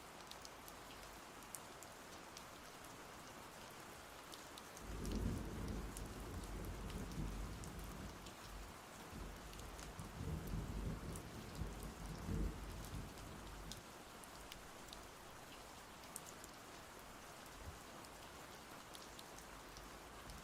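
Steady rain falling, with individual drops ticking on surfaces. About five seconds in, a long roll of thunder rumbles low for around eight seconds, swelling several times before fading back to the rain.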